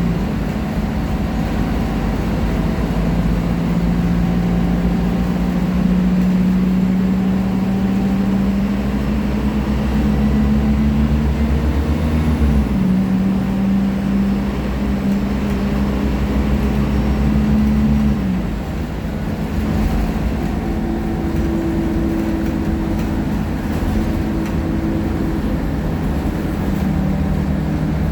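Diesel engine of a Scania K310IA articulated bus running under load, its note rising steadily, dropping sharply about twelve seconds in and again about eighteen seconds in, then running on at a lower, steady note.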